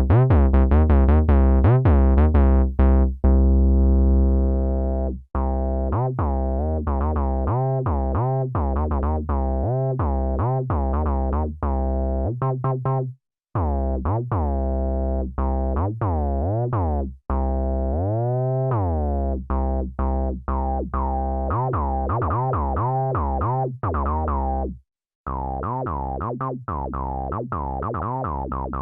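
Behringer Crave analog semi-modular synthesizer playing a fast, repeating bass-heavy note sequence. Its ladder filter sweeps audibly about two-thirds through, and the pattern stops briefly twice.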